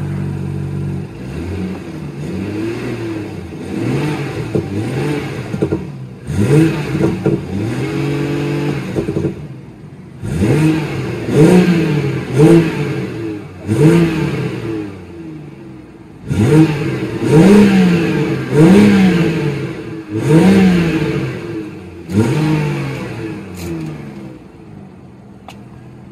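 BMW 340i's turbocharged 3.0-litre straight-six, heard from inside the cabin while the car stands still. It idles briefly, then is revved again and again in throttle blips, each a rising and falling note. The blips in the second half are sharper and louder, about one a second, and the engine settles back toward idle near the end.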